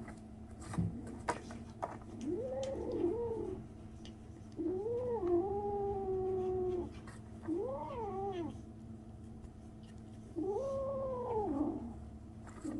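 A 37-day-old kitten giving four long, drawn-out meows, each rising and then falling in pitch; these are the strange noises it makes. A few light clicks come in the first two seconds.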